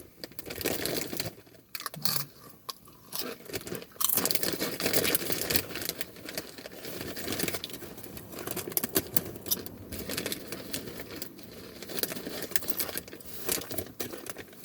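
Close-up crunching and chewing of chips, with irregular crackles and some crinkling of packaging.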